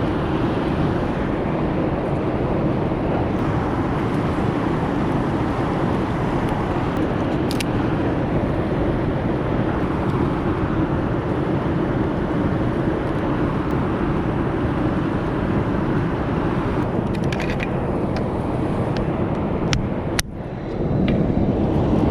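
A steady rushing noise with a few small crackles and snaps from a newly lit wood fire. The sound drops out briefly near the end.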